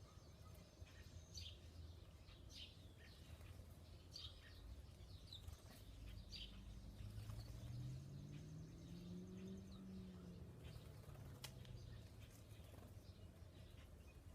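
Songbirds giving short, high chirps several times, mostly in the first half. Under them, a faint low hum rises and then falls in pitch through the middle.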